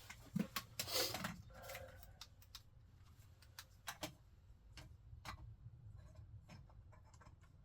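Light, irregular metallic clicks and taps, with a short scraping cluster about a second in: a small screwdriver working a valve keeper into place on a valve stem in the cylinder head.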